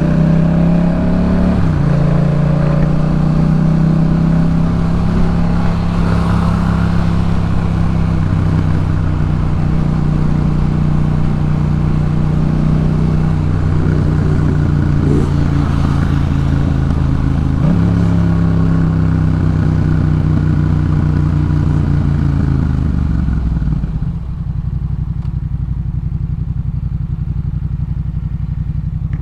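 Yamaha MT-07's parallel-twin engine breathing through a Jeskap K4 full aftermarket exhaust, pulling under way with a sudden drop in pitch about two seconds in and again past the middle, like upshifts. Near the end the throttle closes and it settles to a lower, steady note.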